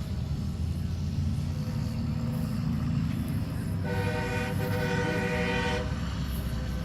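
Heavy trucks' engines rumbling steadily, with a truck air horn blown once for about two seconds a little past the middle.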